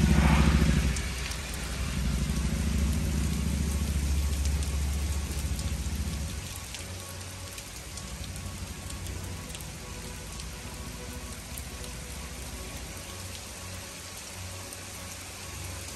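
Heavy rain pouring onto a street and pavement, an even hiss with fine pattering ticks. A car drives past on the wet road right at the start, and a low rumble runs under the rain for the first six seconds before fading.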